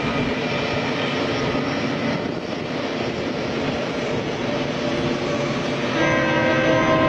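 A long freight train's diesel locomotives running with a steady rumble. About six seconds in, a locomotive air horn starts sounding a chord of several notes.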